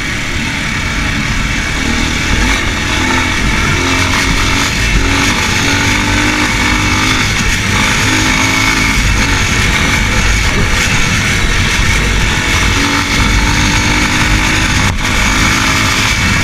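Racer Panther 300 enduro motorcycle engine running while being ridden, its note rising and falling with the throttle.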